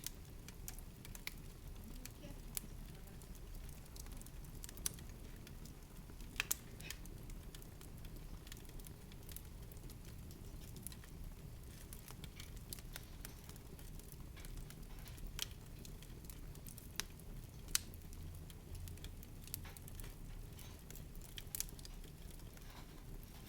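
A low, steady rumble with sparse, irregular sharp crackles, roughly one a second.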